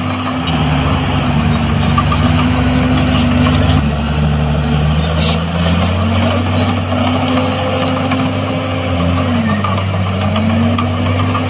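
Diesel engines of heavy earthmoving machinery running steadily. A second, lower-pitched engine is heard alongside for the first half. Near the end, the main engine's pitch dips briefly and comes back up, as if it is taking a load.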